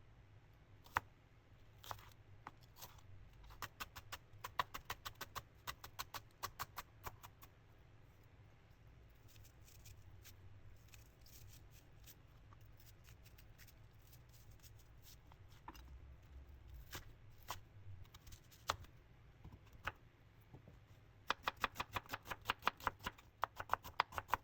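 Kitchen knife chopping on a cutting board: quick runs of sharp taps, about five a second, with single taps between the runs.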